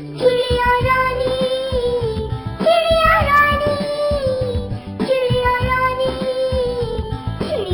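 Children's nursery-rhyme music with a child-like voice singing three long held notes, each about two and a half seconds, over a backing track.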